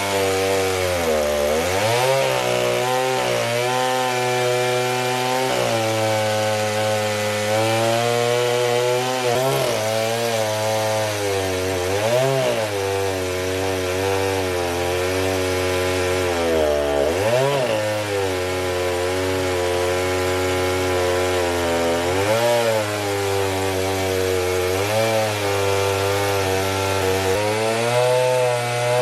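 Knockoff Stihl two-stroke chainsaw on a chainsaw mill running at high revs while ripping a log lengthwise. The engine speed sags under the load and recovers every few seconds.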